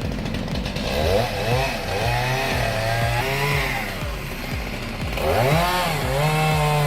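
Two-stroke chainsaw revving: the engine climbs in pitch about a second in, drops back, and revs up again about five seconds in, holding high near the end.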